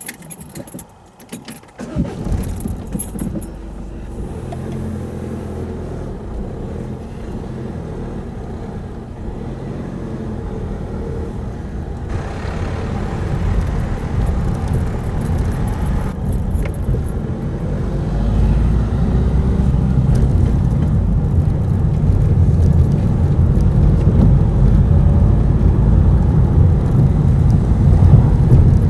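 Diesel passenger train approaching the level crossing: a low rumble that starts suddenly about two seconds in and grows steadily louder as it nears.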